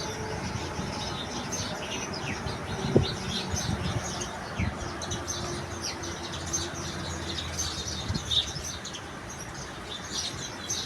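Small birds chirping busily in the background, with a faint low hum and a single sharp knock about three seconds in.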